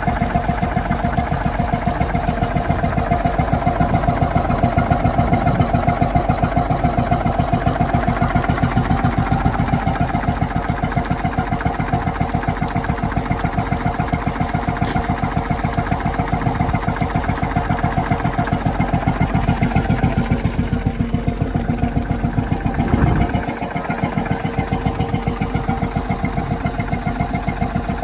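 1928 Le Pratic 10 hp surface-ignition stationary engine, a licence-built Petter S type, running steadily with a regular firing beat. About 23 seconds in there is one louder knock, and the engine then runs slightly quieter.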